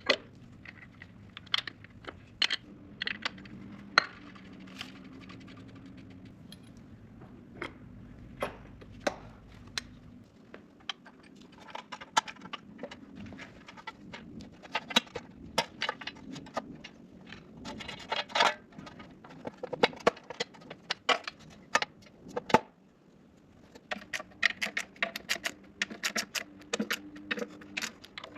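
Irregular metallic clinks, taps and scrapes of hand tools and bolts against engine parts as accessories are fitted onto a 12-valve Cummins diesel engine.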